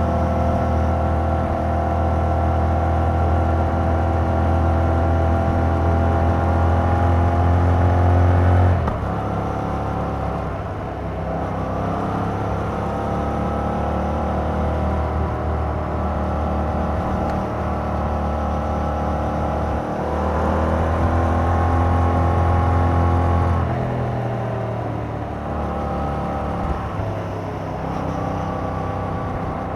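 2021 Yamaha MT-07's 689 cc parallel-twin engine running through its stock exhaust under steady throttle. The engine note drops suddenly about nine seconds in, climbs slowly back, and drops again a few seconds before the end.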